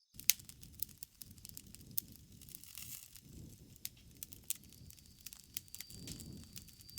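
Campfire burning: irregular crackles and sharp pops of burning wood over a soft low rumble of flames that swells and fades.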